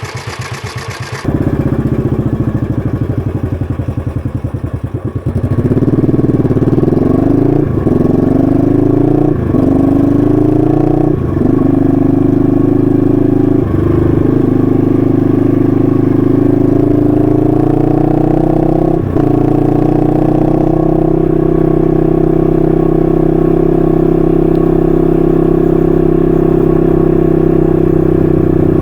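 1968 Honda CL250's 250cc parallel-twin engine running through its stock muffler. The bike accelerates with rising revs, with five short breaks as it shifts up through the gears, then settles into a steady cruise.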